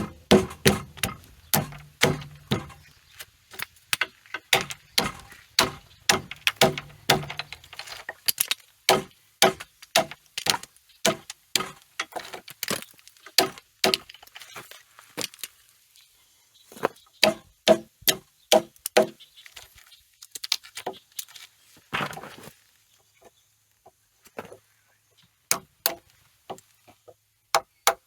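Hammer striking a wood chisel in runs of quick taps with short pauses between, paring out and cleaning up a recess that was cut with a table saw.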